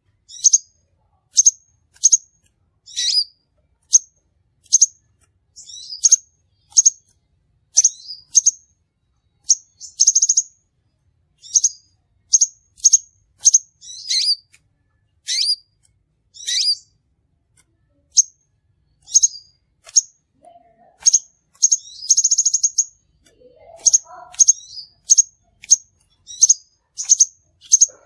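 Crimson sunbird calling: a steady run of short, high-pitched chirps, one or two a second, broken twice by a longer buzzy trill.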